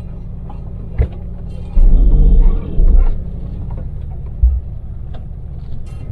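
Daewoo Damas microvan on LPG heard from inside the cabin, its small engine droning steadily under way. Heavy low rumbles break in about two seconds in, again just after, and briefly past the halfway mark.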